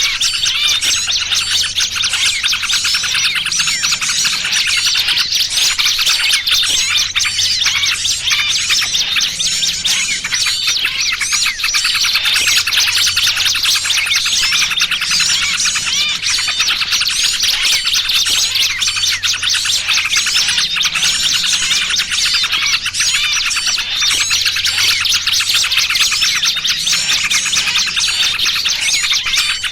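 Bird-lure recording: a dense, unbroken chorus of many small birds chirping and twittering excitedly, the 'noisy' trucukan (yellow-vented bulbul) chatter mixed with the distress calls of trapped small birds. A faint low hum recurs every few seconds underneath.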